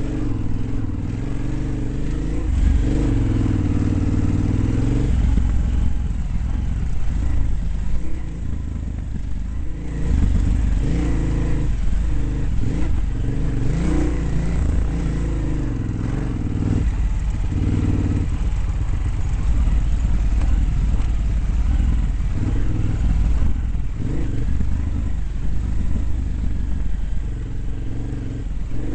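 Dirt bike engine revving up and falling back again and again as it is ridden around a track, over a constant low rumble.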